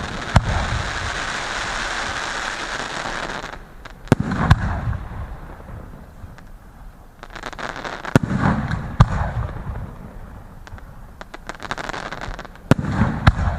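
Fireworks going off: a dense crackling hiss for the first few seconds, then sharp bangs about every four seconds, each followed by a burst of crackling pops.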